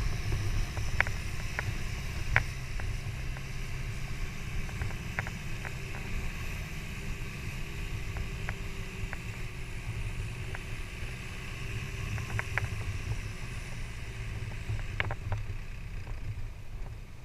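Boat engine running steadily, a low rumble with scattered short knocks and clicks over it.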